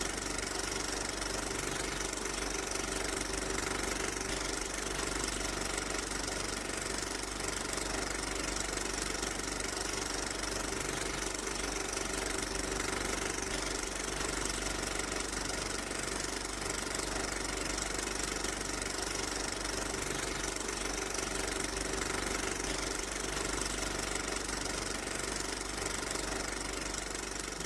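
A steady mechanical drone with a constant hum, like a machine or engine running evenly.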